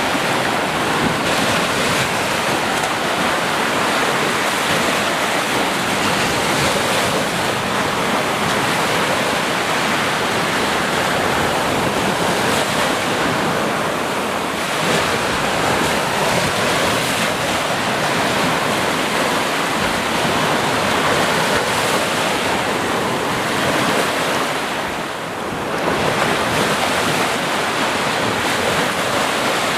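Sea surf washing onto a shore: a steady, dense rush of breaking waves that eases briefly about five seconds before the end and then comes back.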